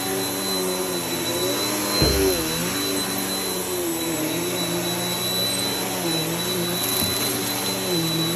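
Vacuum cleaner running over the floor, its motor pitch dipping and recovering as the load changes, with a short knock about two seconds in.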